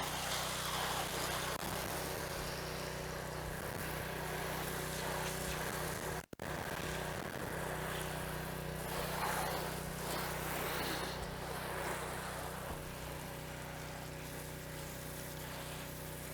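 Pressure washer running steadily, its water spray hissing against dirty house siding as the stained area is washed down. The sound breaks off for a moment about six seconds in, then carries on.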